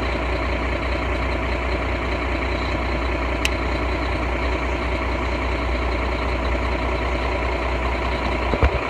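Truck engine idling steadily with a low, even drone, warming up shortly after a cold start, heard from inside the cab. A brief sharp click about three and a half seconds in and a couple of knocks near the end.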